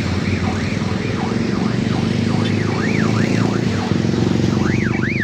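Truck engine running steadily, with a high chirping tone that sweeps up and down over and over, several sweeps a second, coming in two clusters, like a vehicle alarm or siren.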